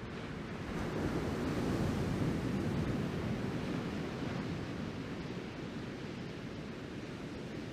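Ocean surf from a typhoon swell breaking and washing in, with wind buffeting the microphone. The rush swells about a second in and eases off after a few seconds.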